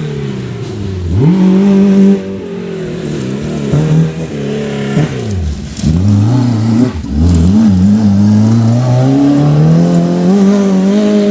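Off-road race car engine revving hard, its pitch rising and falling with the throttle. The pitch drops sharply about a second in and twice more in the middle, then climbs steadily near the end.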